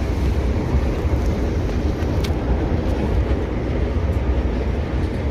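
Steady low rumble of a Southern Class 377 Electrostar electric train running, heard from inside the coach, with a few faint clicks.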